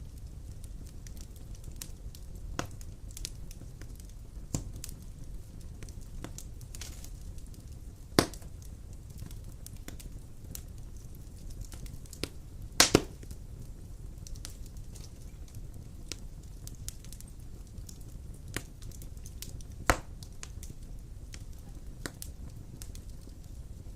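Large logs burning in a wood fire, a steady low rumble of the flames with scattered sharp pops and cracks from the wood, the loudest about a third of the way in, a quick double crack past the middle, and another near the end.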